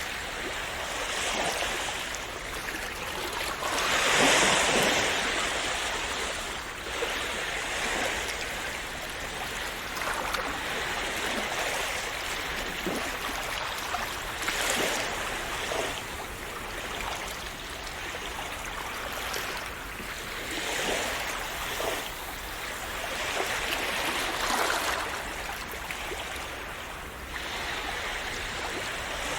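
Sea waves washing onto a shore, a steady rush of surf that swells and eases, loudest about four seconds in.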